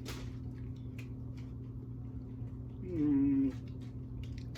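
A short held hum from a person's voice, like a thinking "hmm", about three seconds in, over a steady low electrical-sounding hum and a few faint clicks.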